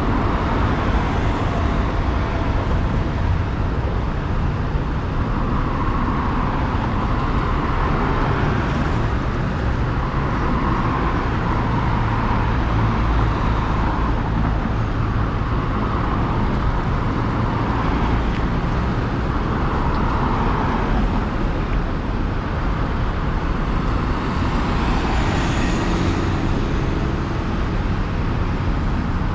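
Steady road traffic noise: motor vehicles running along the road, with a constant low rumble and no distinct single event.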